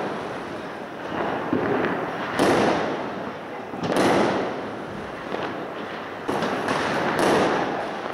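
Aerial fireworks bursting in the sky: about four sharp bangs spaced one to two seconds apart, each fading over about a second, over a constant din of other fireworks going off.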